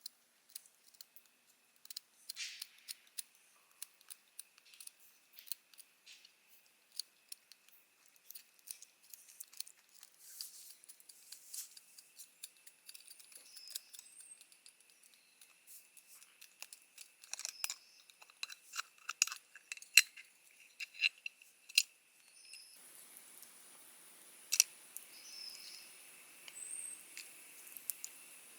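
Irregular sharp clicks and snips of close-up hand work, busiest and loudest about two-thirds of the way through, over a faint steady high tone. Near the end the background changes to a soft, even hiss.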